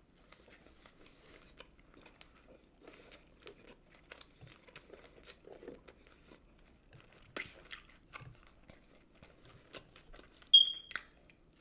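Close-up eating sounds: a person biting and chewing a fried chicken sandwich, with scattered small crunches and mouth clicks. Near the end comes a brief, sharp, high-pitched squeak, the loudest sound.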